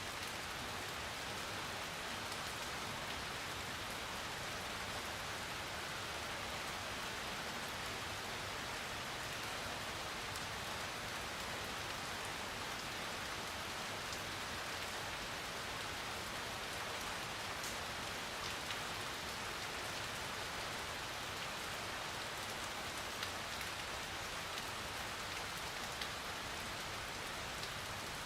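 Steady rain falling on a surface, a constant even hiss with an occasional distinct drop tick.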